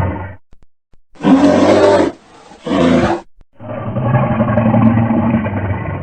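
A series of loud animal calls: two short calls a little after a second in, then a long, low, steady call from about three and a half seconds in.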